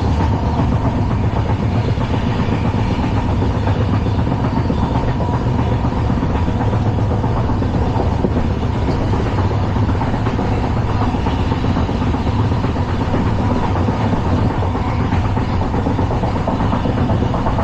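LHB passenger coach running on the track: a loud, steady rumble of wheels on rail.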